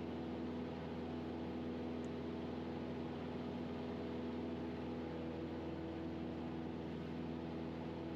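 Steady drone of a Cessna 172RG's engine and propeller in flight: a constant hum with several steady tones over a hiss.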